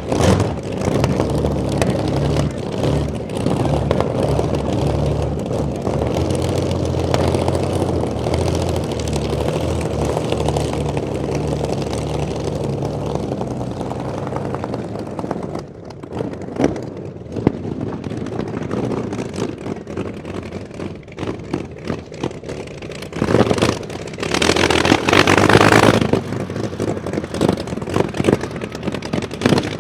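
The 27-litre V12 aero engine of the land speed record car Babs running, its pitch stepping up and down for about fifteen seconds before it drops away, with a short loud rush of noise a few seconds before the end.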